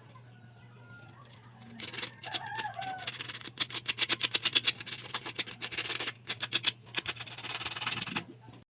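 Rapid scratching strokes, several a second, over a steady low hum. A brief bird call, likely a rooster, about two and a half seconds in.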